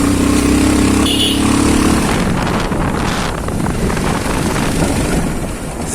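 Motorcycle engine running steadily under way, with wind and road noise rushing over the microphone; the engine's steady hum gives way to the rush of wind about two seconds in.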